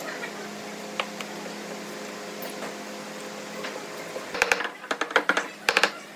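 A steady low hum, then from about four seconds in a rapid, irregular run of sharp clicks and taps.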